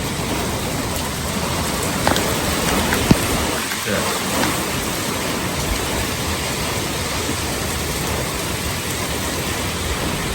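Hurricane rain and wind: heavy rain making a steady, even hiss, with a couple of brief knocks about two and three seconds in.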